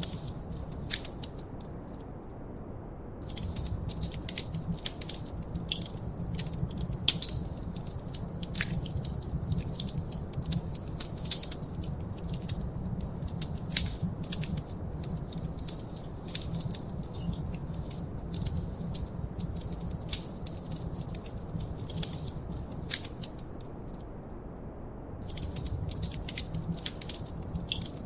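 Wood fire crackling in a fireplace: dense, irregular pops and snaps over a steady low rumble. The crackling drops out briefly twice, about two seconds in and near the end, leaving only the low rumble.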